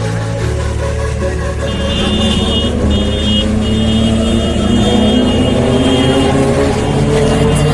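Sport motorcycle engine running and accelerating, its pitch rising through the second half.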